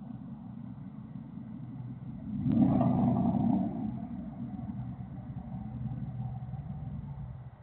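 Pickup truck engine with an unmuffled exhaust running, with one loud rev about two and a half seconds in that lasts about a second before it drops back to a steady lower running note.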